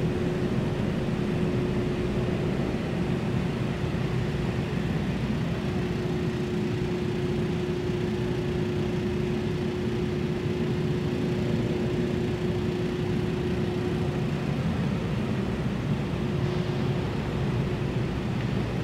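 Steady mechanical hum with a constant mid-pitched drone that weakens a few seconds before the end.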